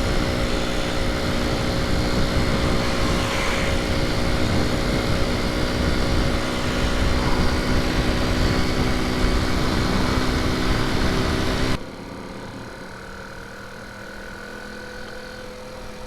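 Honda C90's small single-cylinder four-stroke engine running flat out at a steady pitch, with heavy wind rush on the microphone. About twelve seconds in, the wind and engine level drop suddenly to a quieter, steady engine note.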